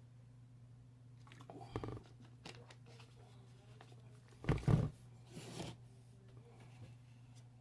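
Close-up chewing and crunching of dry chunks and powder, in a few separate crunches. The loudest come about four and a half seconds in, over a steady low hum.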